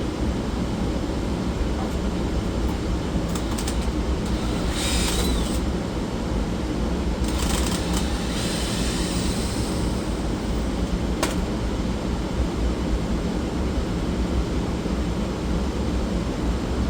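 Steady low mechanical hum, with brief rustling noises about five and eight seconds in and a single sharp click about eleven seconds in.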